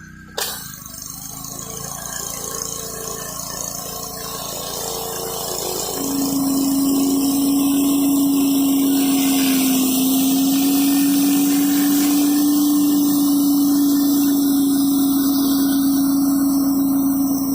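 Gas-engine pressure washer running with high-pressure water spraying. There is a sharp click about half a second in, then the spray hiss builds, and from about six seconds a steady hum joins and the sound gets louder.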